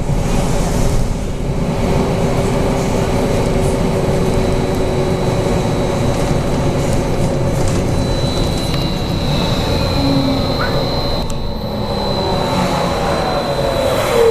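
BKM 43300D trolleybus running between stops: road and tyre rumble with a steady electric drive hum and a thin high whine. From about twelve seconds in, the motor's whine falls in pitch as the trolleybus slows down.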